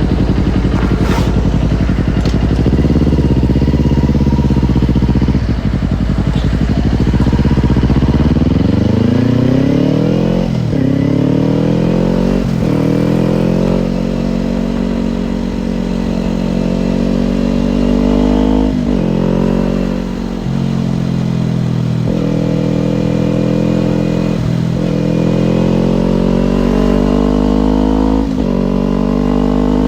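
Kawasaki Ninja parallel-twin motorcycle engine running under way, low and steady at first, then revving up through the gears: its pitch climbs, falls off at each shift and climbs again, several times.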